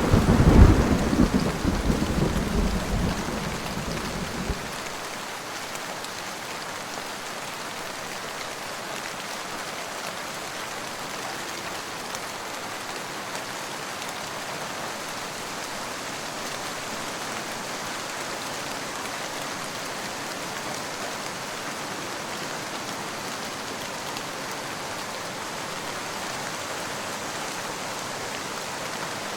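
Steady rain with a loud rumble of thunder in the first few seconds that dies away about five seconds in, leaving the rain alone.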